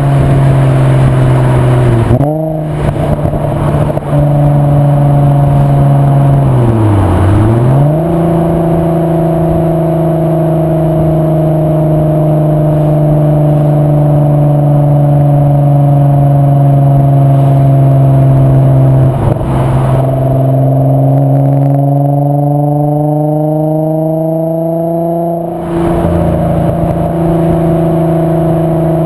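VW 2.8 VR6 24-valve narrow-angle six running through a non-resonated Milltek exhaust under way, a deep steady drone. Its pitch dips and comes back about seven seconds in, then climbs steadily as the car accelerates and falls suddenly near the end at a gear change.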